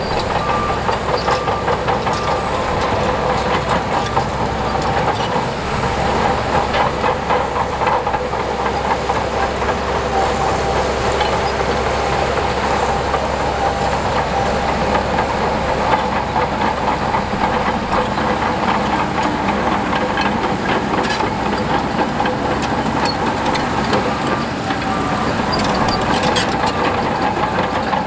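Crawler bulldozer working, its diesel engine running steadily under a continuous dense clanking of steel tracks.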